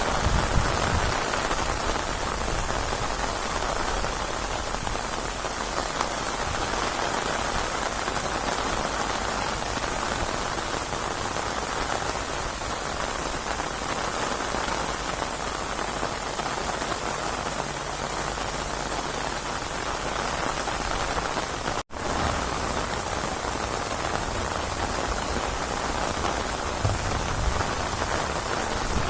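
Steady rainfall, an even hiss of rain on surfaces, which cuts out for an instant about three-quarters of the way through.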